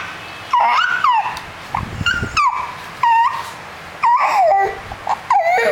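A child imitating a puppy: a string of about half a dozen short, high-pitched squeaky whimpers and yelps, each sliding up and down in pitch.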